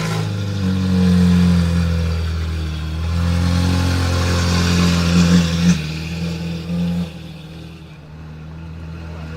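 Lancia New Stratos's Ferrari-derived V8 idling steadily right after start-up, growing quieter about seven seconds in.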